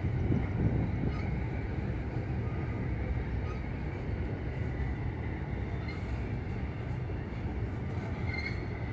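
CN intermodal freight train rolling slowly past, a steady low rumble of the cars running on the rails.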